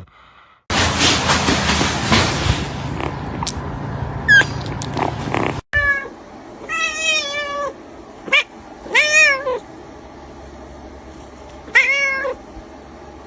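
A domestic cat meowing several times, with short, arching calls spaced out over the second half. Before that comes a loud stretch of rustling, scraping noise with a few clicks, which cuts off abruptly.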